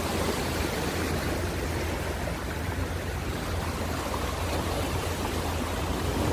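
Ocean surf: a steady rushing wash of waves with a low rumble underneath and no single breaker standing out.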